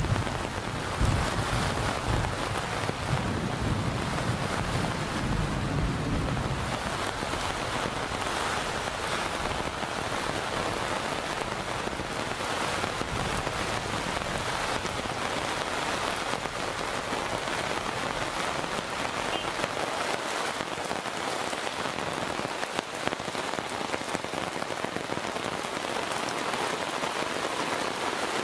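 Heavy monsoon rain falling steadily on the road, roofs and foliage, a dense even hiss. A low rumble sits under it for about the first six seconds, then fades.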